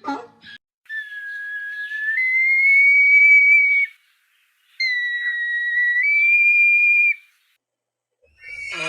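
Two long, high whistled notes, each held steady and jumping up a step in pitch partway through, with a short gap between them.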